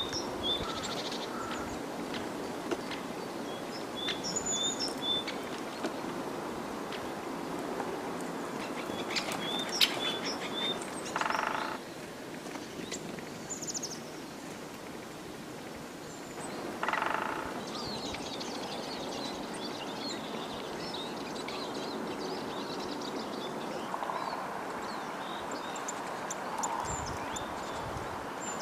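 Forest ambience over a steady background hiss: small birds give short high chirps on and off, with a sharp tap about a third of the way in. A lower bird call sounds twice, once shortly after the tap and again just past halfway.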